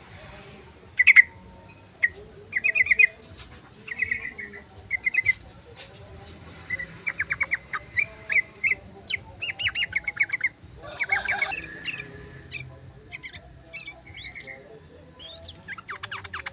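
Yellow-vented bulbul (trucukan) chattering song: short bouts of rapid chirps and trills one after another, with a brief rustling burst a little past the middle.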